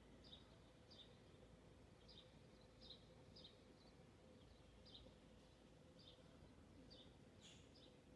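Near silence with a faint bird chirping short two-part calls about once a second, one slightly louder and higher near the end, over a faint steady hum.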